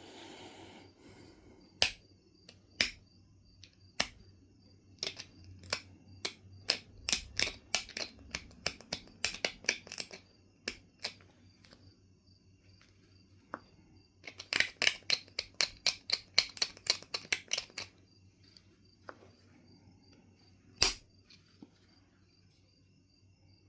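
Knife River flint being knapped: sharp clicks and snaps of tool on stone. A few single strikes come first, then two runs of quick, rapid clicks, and one loud snap near the end.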